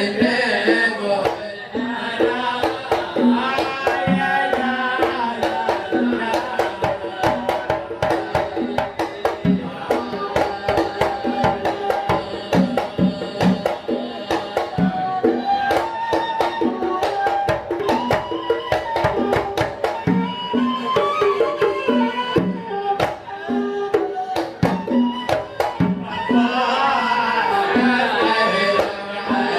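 Hadhrami sama' devotional singing: a male voice singing a melodic line over a steady beat of hand drums. The singing grows fuller near the end.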